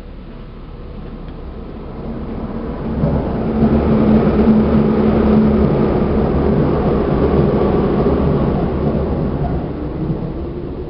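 A train passing through the station on the next track, heard from inside a stopped Seibu New 2000 series car: the rumble swells about three seconds in, holds, and fades near the end.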